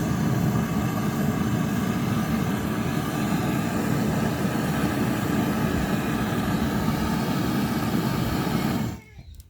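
A loud, steady motor-driven machine running, cutting off abruptly near the end.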